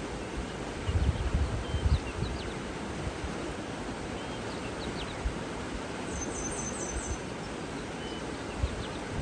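Water rushing steadily, with a few faint, brief bird chirps over it and low gusts of wind on the microphone about a second in.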